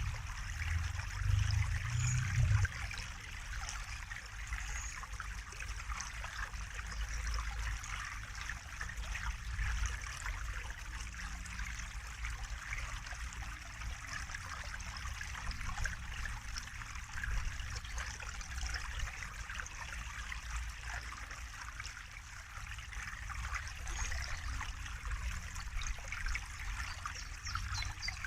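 Running water trickling and babbling steadily, with a low rumble under it for the first couple of seconds.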